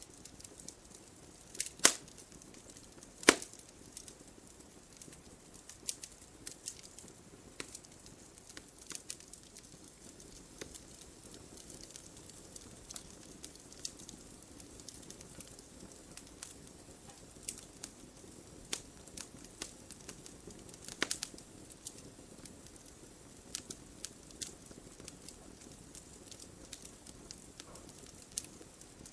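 Wood fire burning in a fireplace: scattered crackles and small snaps over a soft steady rumble. Near the start come two loud pops about a second and a half apart, and later another loud burst of crackles.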